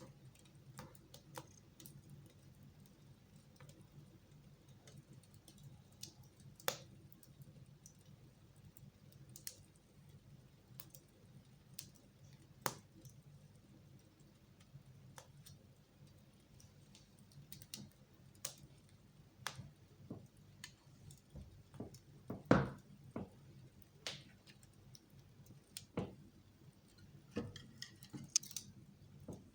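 Wood fire crackling in a fireplace: irregular sharp pops and snaps, a few every second or two, the loudest about two-thirds of the way in, over a low steady hum.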